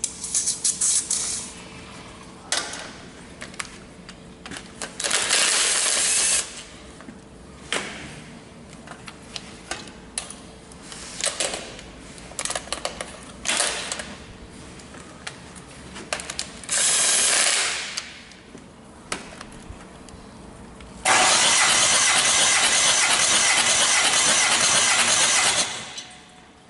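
Hyundai D4CB 2.5-litre four-cylinder diesel engine turned over on its starter during a compression test, in several short bursts with clicks between them and one longer, louder stretch of about four and a half seconds near the end.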